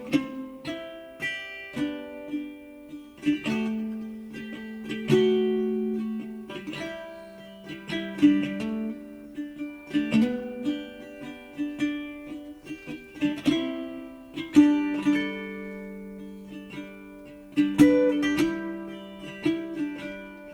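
Background music: a plucked acoustic guitar or ukulele playing a melody, each note ringing out and fading.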